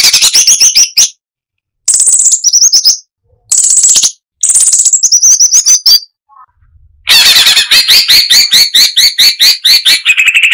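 Cucak cungkok singing in fast, dense bursts of rapidly repeated notes. There are four short phrases about a second long with brief silences between them, then a longer unbroken run of rapid notes from about seven seconds in.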